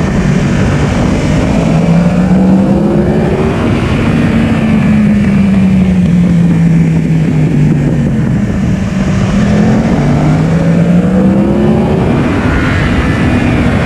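Yamaha R1's inline-four engine under way on track: the pitch climbs as it accelerates, drops away as it slows, and climbs again near the end.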